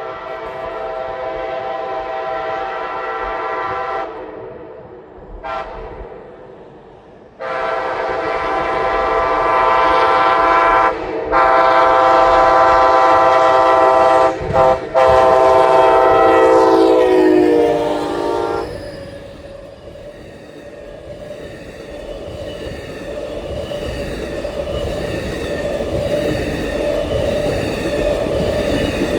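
Florida East Coast Railway freight locomotive's air horn sounding the grade-crossing signal: two long blasts, a short one, then a long blast that drops in pitch as the locomotive passes. The rumble and clatter of the train's cars going by follows, growing louder near the end.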